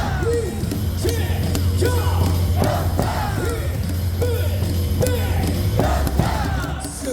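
Baseball stadium cheer song playing loud over the loudspeakers, with a heavy bass line and voices chanting and yelling along.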